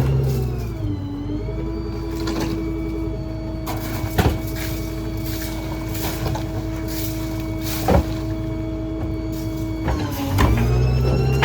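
Small rear-load garbage truck's engine and packer hydraulics running. The engine speed drops about a second in to a lower steady hum and climbs back up near the end. Two sharp knocks come in between.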